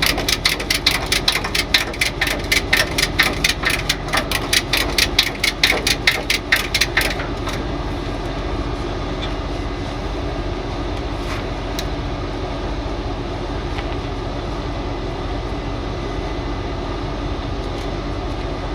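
Ratchet strap being cranked tight, a rapid run of ratchet clicks, several a second, that stops about seven seconds in. A truck engine idles steadily underneath throughout.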